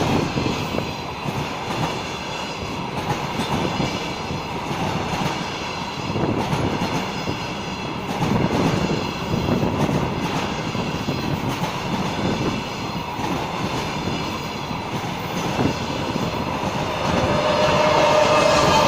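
Freight train wagons rolling past, wheels clattering over rail joints in an uneven rhythm. A steady tone joins in near the end.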